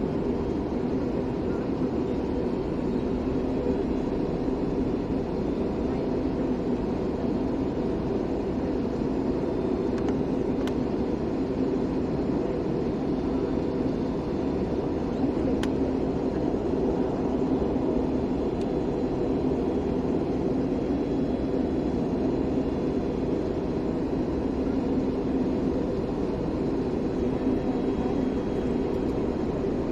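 Steady cabin drone of an airliner in flight, heard from inside the passenger cabin: an even rush of engine and airflow noise with a low steady hum running through it.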